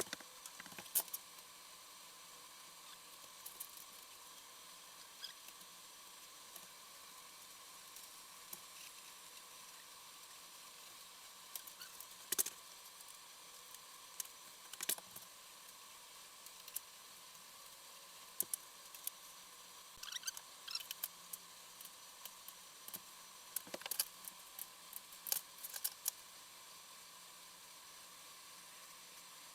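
Scattered small metallic clicks and taps of hand tools working on a Suzuki Djebel 250 engine as the cam chain tensioner is loosened, heard faintly over a steady low background hiss.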